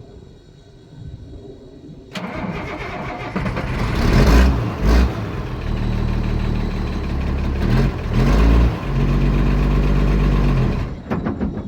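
A 1987 International S1900's DT466 turbo-diesel engine is cold-started after sitting about four days in nights in the 40s: the starter cranks about two seconds in and the engine catches. It is revved twice and runs steadily between the revs, and the sound ends abruptly near the end.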